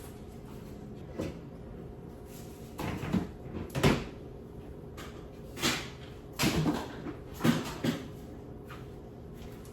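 Cupboard doors being opened and shut: a series of sudden knocks and bangs, about six in all, the loudest about four seconds in.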